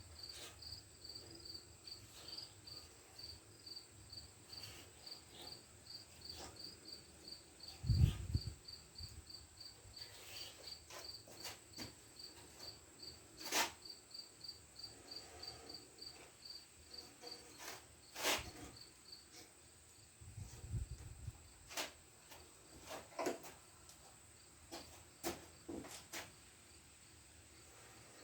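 A cricket chirping steadily, about three short high chirps a second. Scattered sharp clicks and two dull thumps come from metal parts being handled on a workbench.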